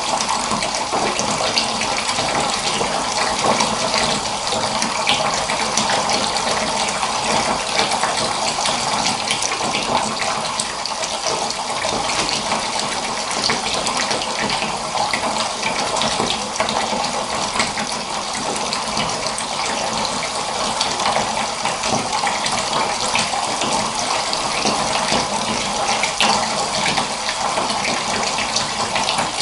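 Water running steadily from a tap into a filling bathtub, an even, unbroken splashing rush.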